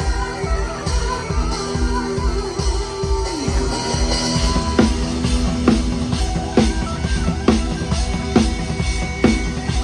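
A live band playing loud music, led by a PDP drum kit, recorded on an iPhone. Held melody notes slide down about three and a half seconds in, and after that the kick and snare hit a steady beat about once a second.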